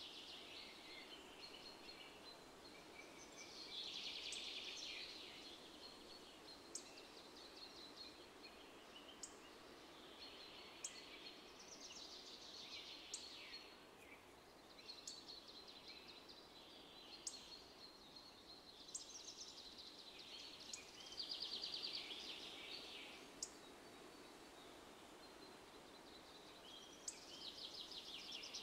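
Songbirds singing outdoors in repeated trilled phrases every few seconds, with short high chirps in between, over a faint steady background hum.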